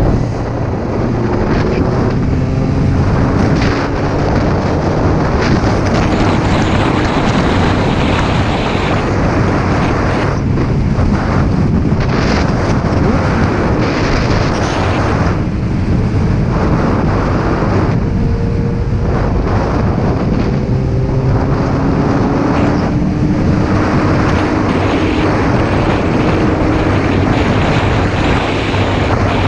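Motorcycle engine running while riding, its pitch slowly rising and falling with the throttle, under heavy wind noise on the microphone.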